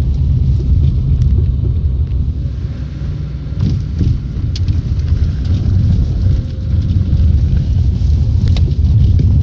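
Lanos-family car driving, with steady low road rumble and a few sharp clicks and knocks: an unidentified extraneous noise that the owner describes as metallic clanking, tapping and a kind of crunch while driving.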